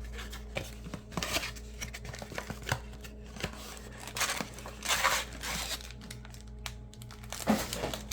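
Foil wrapper of a baseball card pack crinkling and being torn open, in several rustling bursts with the loudest near the end.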